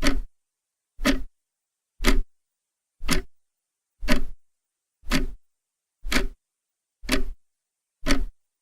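Clock ticking steadily, one tick a second, each tick short and sharp with dead silence between.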